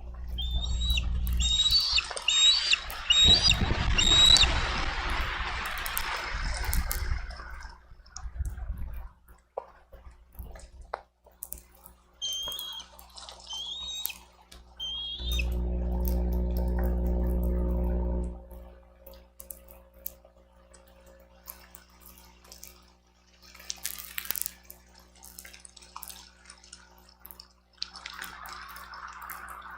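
Storm wind gusting over a bald eagle nest camera's microphone with a low rumble, amid rain drips and tapping. Two bouts of high, repeated chirping bald eagle calls come through: about five notes a couple of seconds in, and three or four more near the middle.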